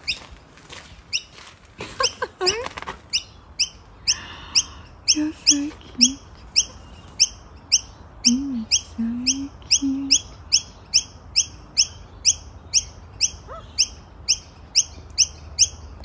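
A bird chirping over and over in an even rhythm, two to three short, high, falling chirps a second, with a few soft low notes in between.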